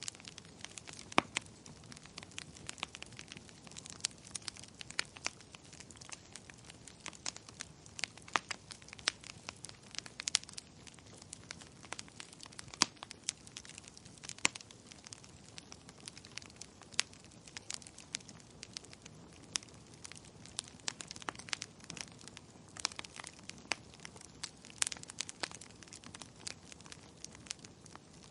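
Wood fire crackling in a fireplace: frequent irregular sharp pops and snaps over a soft steady hiss.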